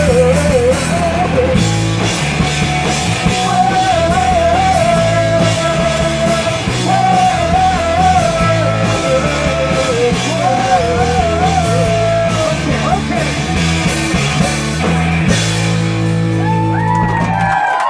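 Live punk rock band playing loud, with guitar, bass and drum kit under a wavering lead melody. The band stops suddenly near the end and shouts from the crowd begin.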